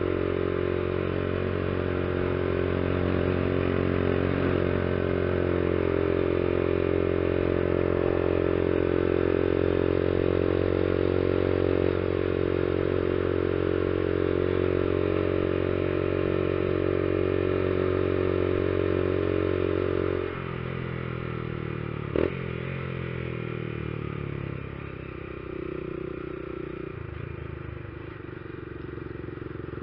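Honda CG Fan 150 ESDI's single-cylinder four-stroke engine running at a steady cruising pace on a climb. About two-thirds of the way through, the engine note drops suddenly to a lower, quieter speed, and a single sharp click follows a couple of seconds later.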